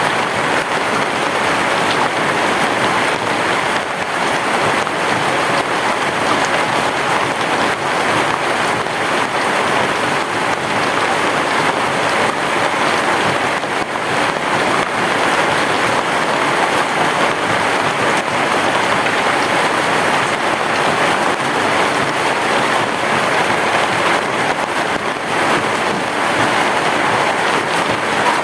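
Heavy rain falling steadily, a dense even patter with no thunder heard.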